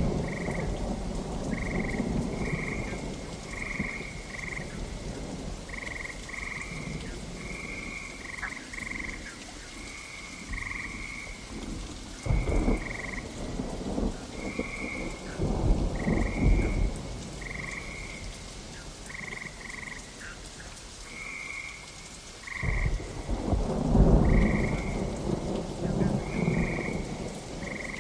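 Steady rain with three rolls of thunder, the last and loudest near the end, under a run of short, high-pitched calls repeating about once a second.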